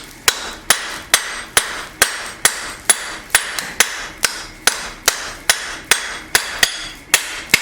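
Hand hammer striking hot steel on an anvil in a steady rhythm, a little over two blows a second, each blow with a short metallic ring: drawing out and thinning the steel behind the knife blade.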